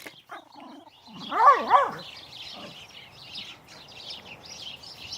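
A dog gives two quick barks about a second and a half in, over the steady chirping of many small birds.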